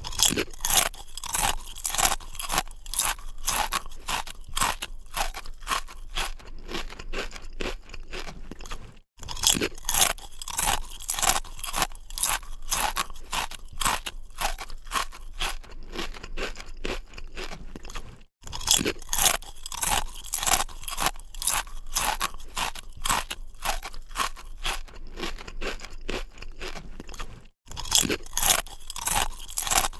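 Close, crisp crunching of someone biting and chewing raw green mango, in irregular rapid crunches, broken by three brief silences.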